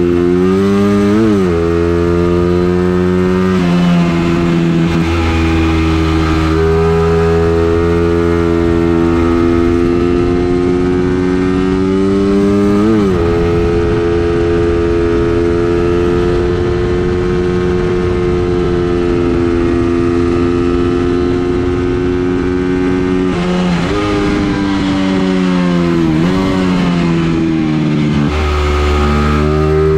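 Racing engine under load on track laps, holding a high, fairly steady pitch with a few quick dips and recoveries, like lifts or gear changes, about a second in, halfway through, and near the end.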